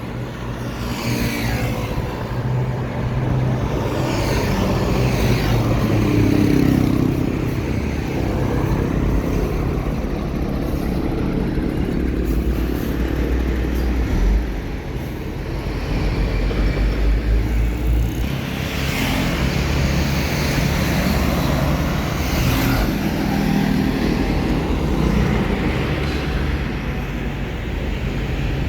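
Road traffic passing close by: trucks' engines and tyres, several vehicles going by one after another, with the engine sound swelling and fading as each passes.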